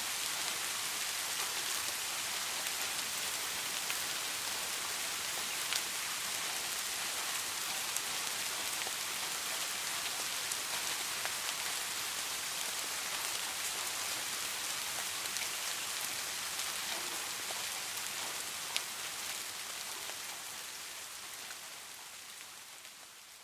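Steady rain falling on a surface, an even hiss with scattered sharp drop ticks, fading out over the last few seconds.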